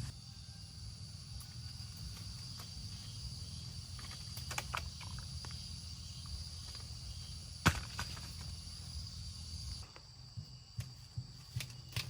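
Outdoor rural ambience: a steady high insect drone over a low rumble, with scattered clicks and knocks, one of them sharp about three quarters of the way in. Near the end the drone and rumble drop away and a quick run of soft taps or steps follows.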